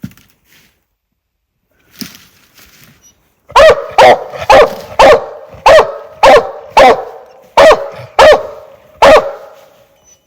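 A Treeing Walker coonhound barking up close: about ten loud barks in quick succession, roughly two a second, starting a few seconds in. This is a hound barking treed on a raccoon.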